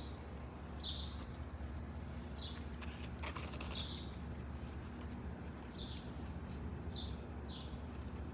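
A small bird chirping outdoors: short, downward-sliding chirps repeated about once a second, some seven in all, over a steady low background rumble. A brief burst of noise comes about three seconds in.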